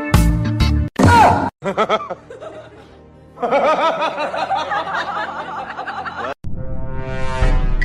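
Music and edited comedy sound effects: a short falling glide about a second in, then a few seconds of laughing, and a rising tone near the end.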